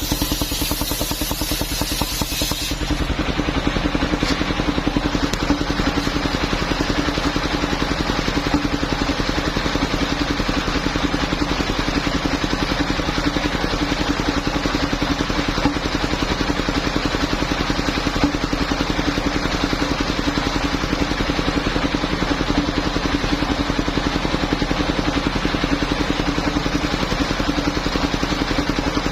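Engine of a mobile circular sawmill running steadily. A high hiss sits over the engine for the first three seconds and then stops.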